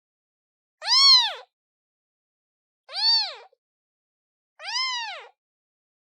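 Newborn kitten, a day old, meowing three times about two seconds apart, each high call rising and then falling in pitch: a kitten calling for its mother.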